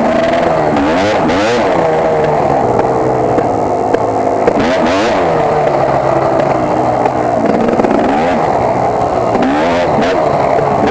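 KTM EXC two-stroke enduro engine running and revved over and over, its pitch climbing and dropping back about six times. The engine is being run in on a freshly rebuilt top end with a new piston.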